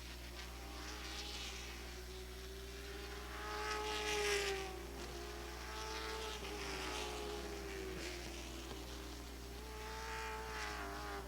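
Late model stock car engines racing past at full throttle, their pitch rising and falling as they go by. The loudest pass comes about four seconds in, with another near the end.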